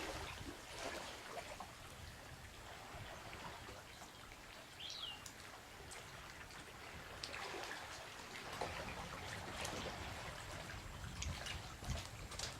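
Faint water trickling and dripping with small splashes, as of kayak paddles dipping and dripping. A short high chirp sounds about five seconds in.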